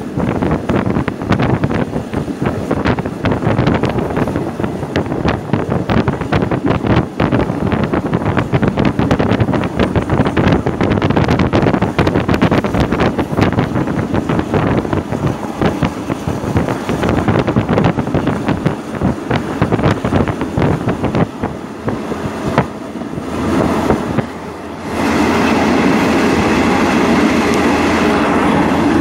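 Passenger train running at speed, heard from inside the carriage: wheels clatter over the rail joints in a dense run of sharp clicks over a steady rolling rumble. About 25 seconds in, the clatter gives way to a steadier, more even sound.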